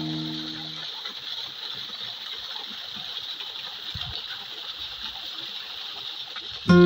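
Waterfall water splashing and trickling steadily, with no music over it. The last held notes of the music stop about a second in, and a plucked guitar comes in loudly at the very end.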